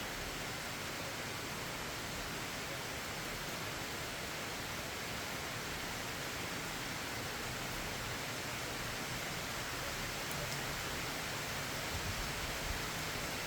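Steady rain falling, an even hiss with no distinct drops or tones.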